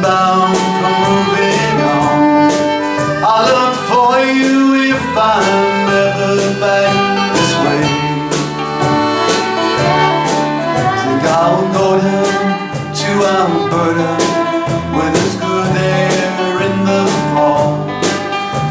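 Country-folk band playing live, with guitar and a melodic lead line, and a voice singing over it.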